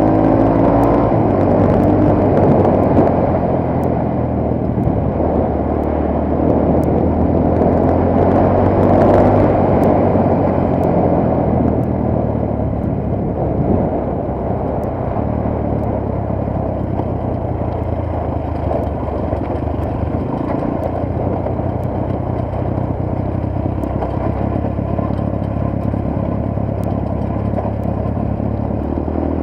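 Motorcycle engine running steadily while under way, mixed with heavy wind rush on an SJ4000 action camera's microphone.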